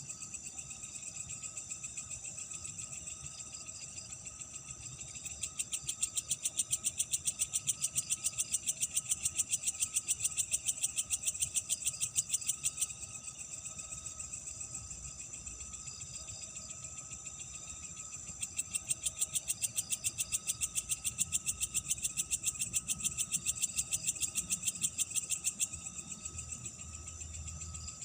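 Night insect chorus: a steady high cricket trill with a fainter lower tone underneath, and twice a louder, rapidly pulsed insect trill that comes in, runs about seven seconds and stops, the first about five seconds in and the second about eighteen seconds in.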